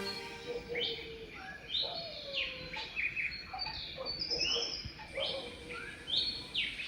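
Several wild birds calling in a run of short, separate notes, many of them quick downward slides, one after another with brief gaps.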